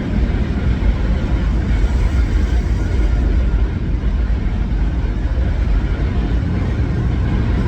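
Automatic car wash running, heard from inside the car's cabin: a steady, loud rushing rumble with no breaks.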